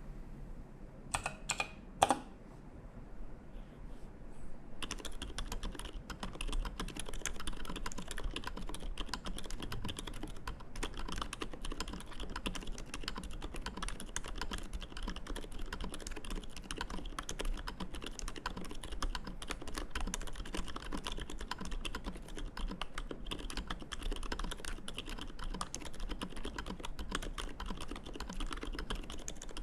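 Arisu custom mechanical keyboard in an acrylic case with lubed Boba switches and GMK keycaps being typed on: a few separate keystrokes in the first couple of seconds, the loudest about two seconds in, then steady fast typing from about five seconds in.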